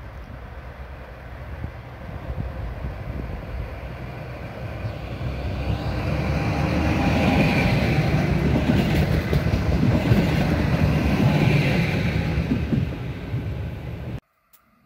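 Passenger multiple-unit train approaching and passing close by: the running noise of its wheels on the rails grows louder, stays loud while the cars go past, then cuts off abruptly near the end.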